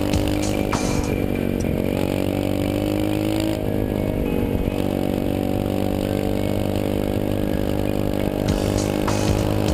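Bud Racing 125cc pit bike engine running under way at fairly steady revs, rising slightly and then easing off a little about three and a half seconds in.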